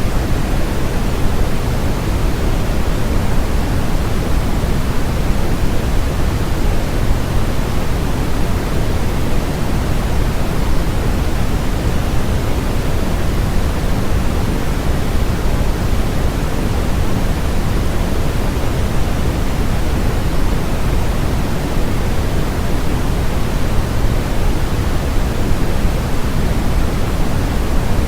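Steady synthetic noise, sold as white noise, with a hiss that stays even and never changes. Its weight sits in the low end and thins toward the treble.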